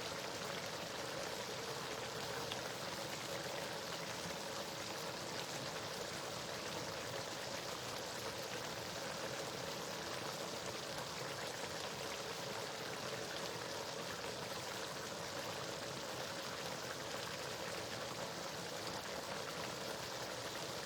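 A pot of stew cooking in red palm oil on the stove, sizzling with a steady, even hiss.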